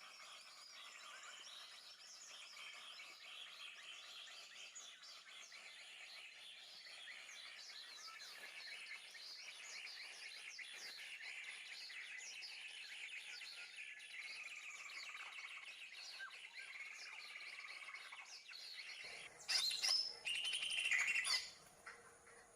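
Birds chirping and calling in a dense, continuous stream of short high chirps, with a few louder calls near the end.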